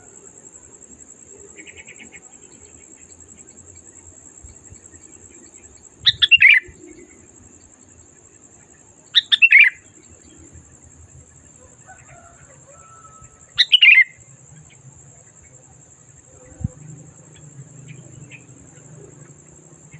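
Sooty-headed bulbul (kutilang) singing loud, short whistled phrases, three of them about three to four seconds apart, with a few faint chirps between, over a steady high-pitched hiss.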